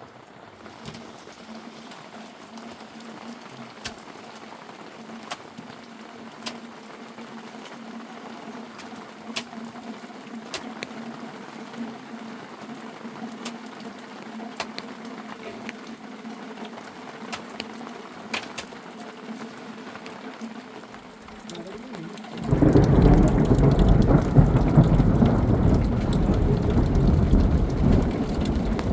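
Faint rain with scattered drop ticks and a low steady hum; about two-thirds of the way in, a much louder, deep rushing rumble comes in suddenly and keeps going.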